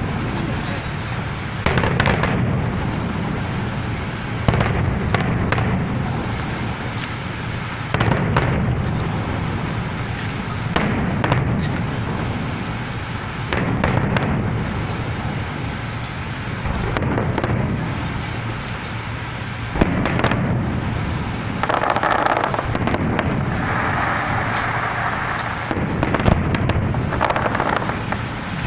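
Fireworks going off: sharp bangs every few seconds over a continuous low rumble.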